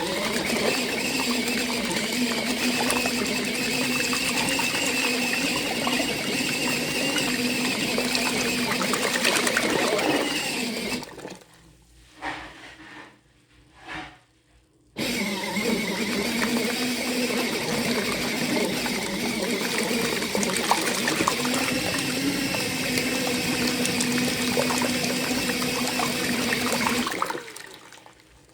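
Mini foldable washing machine running its wash: a steady motor hum with water churning, which stops for about four seconds, then starts again and runs until near the end.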